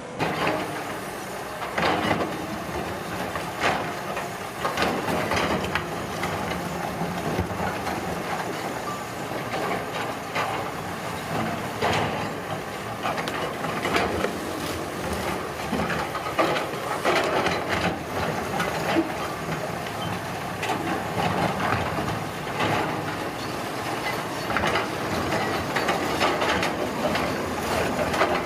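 Road construction machinery running, with frequent irregular clanks and knocks over a steady mechanical noise.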